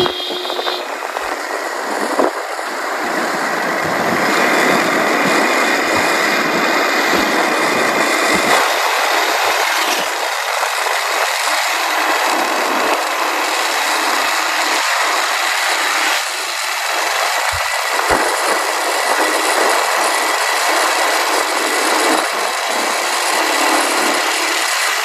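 Motorcycle riding along, its engine and the rush of wind and road noise on the microphone making a loud, steady hiss.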